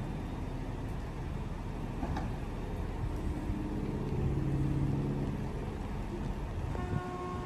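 A vehicle engine running over a steady low street rumble, its hum swelling for a second or two about four seconds in.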